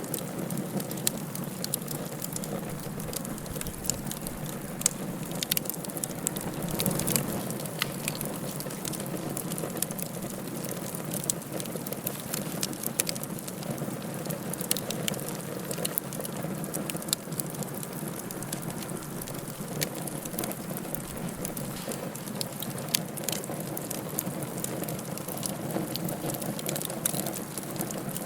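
Wood fire burning in a fireplace, crackling: many small sharp pops over a steady low hiss.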